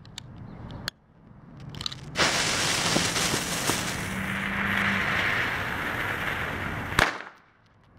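M-150 firecracker going off: its lit fuse hisses and sputters loudly for about five seconds, ending in a single sharp bang.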